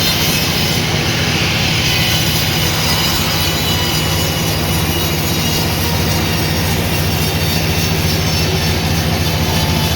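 Sawmill saw and its drive running steadily: a constant loud machine noise with a deep hum underneath.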